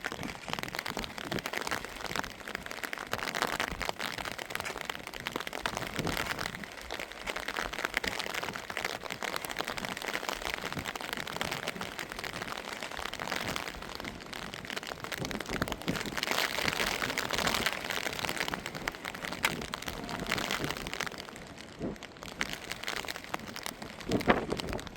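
Rain falling, a dense spatter of small hits that swells and fades, with one louder knock near the end.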